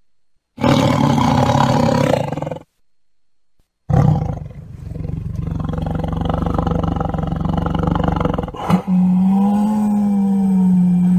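Tiger roaring in three separate loud calls: a roar of about two seconds, a second of silence, then a longer drawn-out roar, followed near the end by a steadier held call.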